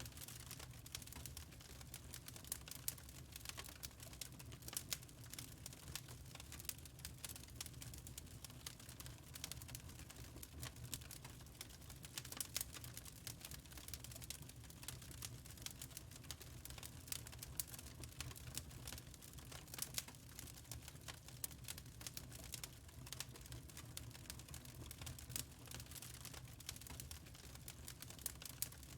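Wood fire crackling: a steady run of irregular small snaps and pops, some louder than others, over a low rumble of the burning.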